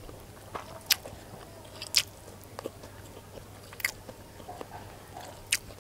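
A person chewing fried rice close to the microphone, with four sharp clicks spaced a second or two apart.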